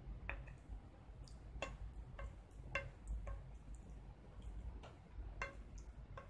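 Fork or other cutlery clinking and tapping against a plate while eating pasta: about eight light, sharp clicks at irregular intervals, each with a brief ring, over a steady low hum.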